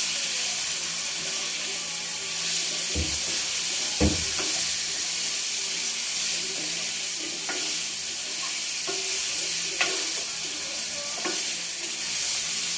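Food sizzling in hot oil in a pan. A spatula knocks and scrapes against the pan several times.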